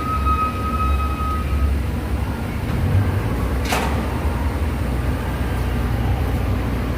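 Steady low machine hum. A thin high tone fades out after about a second and a half, and there is one brief sharp crackle a little past the middle.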